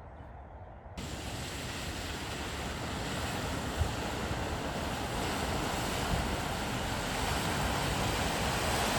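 Steady rushing noise, like wind or surf, that cuts in abruptly about a second in and slowly grows louder, with one short low thump partway through.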